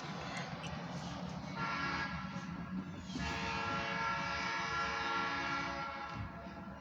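Distant locomotive horn of a passenger train sounding two blasts, a shorter one then a longer held one, fading off near the end.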